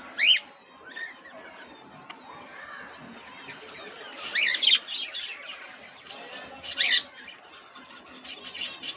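Caged pet birds, budgerigars among them, calling together in a market. Loud rising squawks come three times, about half a second, four and a half and seven seconds in, over a steady chatter of many small birds.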